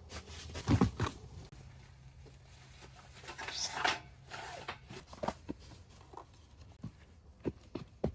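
Objects being handled at close range: two heavy knocks about a second in, a rustling swish around three and a half seconds in, then scattered light knocks and clicks.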